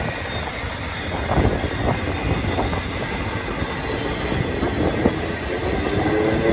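Union Pacific freight train rolling past with a steady rumble of wheels on rail and a few clacks over the rail joints. Near the end a rising engine note joins in.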